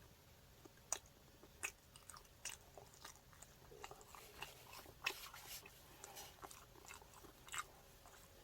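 A person biting and chewing a chicken burger close to the microphone: faint mouth sounds with scattered sharp crunches, the loudest about a second in, around five seconds in and near the end.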